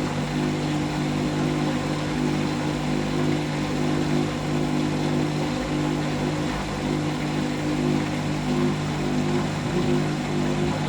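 Hoover washing machine running at a steady speed, a constant motor hum with several steady tones.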